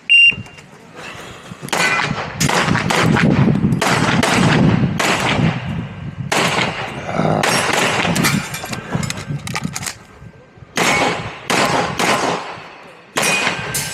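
A short electronic beep from a shot timer, then rapid pistol fire: several fast strings of shots separated by brief pauses, as a shooter runs an IPSC stage.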